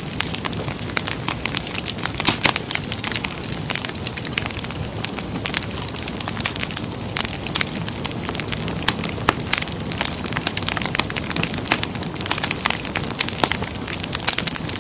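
Wood fire crackling in a fireplace: many irregular sharp pops and snaps over a steady low rush of burning.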